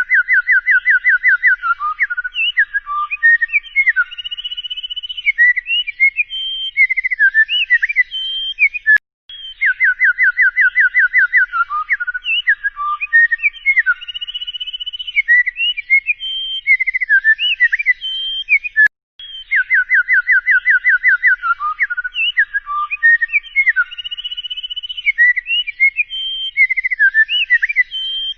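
Songbird-like whistled song: a quick run of rising whistled notes, then assorted sliding whistles and trills. The same phrase of about nine seconds repeats three times, with a short break between each, as in a looped recording.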